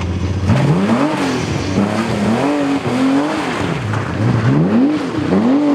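Rally car engine revving hard, its pitch rising and dropping again about five times as the driver works the throttle and gears.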